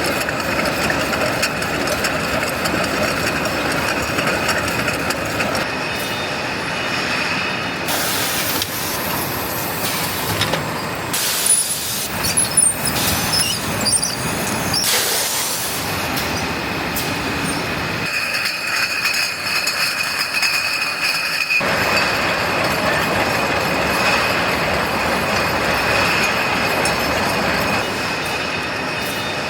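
Bottling line machinery running: steady mechanical clatter and hiss with a constant high whine, changing abruptly several times.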